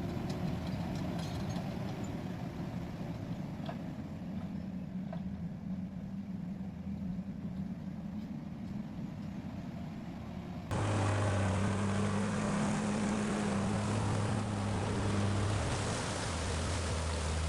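Forestry forwarder's diesel engine working under load, with a few faint clicks and knocks. About two-thirds of the way through, the sound cuts abruptly to a louder, steadier engine note from another machine.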